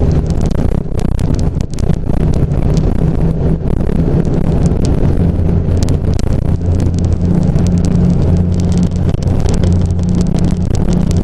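1991 Jeep Cherokee's 4.0-litre straight-six engine running at a steady speed, a little louder from about six seconds in, with crackling noise over it.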